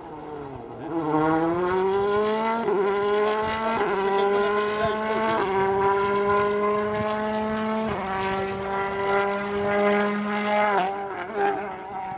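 A World Rally Car's 1.6-litre turbocharged four-cylinder engine accelerating hard through the gears, the pitch climbing and briefly breaking at each of several upshifts. Near the end the engine note dips as the car lifts and shifts down.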